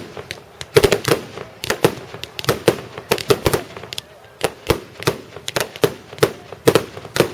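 Aerial fireworks exploding in a rapid, irregular series of sharp bangs and crackles, coming in clusters with a brief lull about four seconds in.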